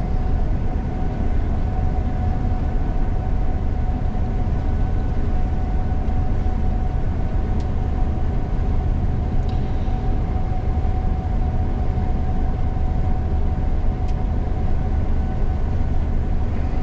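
Gleaner combine running steadily while harvesting soybeans, heard from inside the cab: a low rumble with a steady whine on top.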